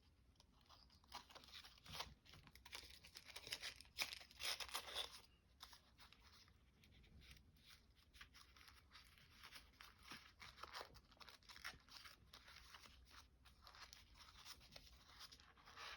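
Faint rustling and crinkling of paper handled by hand as it is folded and twisted into a knot, in short scattered rustles that are a little louder about a second in and again around four to five seconds in.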